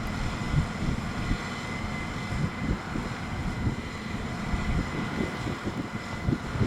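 Strong gusty wind buffeting the microphone, an uneven low rumble, over a faint steady high-pitched whine.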